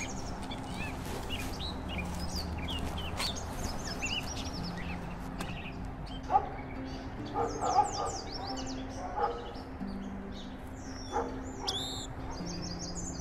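Several songbirds calling and singing, mostly high chirps, with runs of high calls sweeping up and down in the second half, among them a repeated descending call. A few short, louder, lower-pitched calls come in between, about six to nine seconds in.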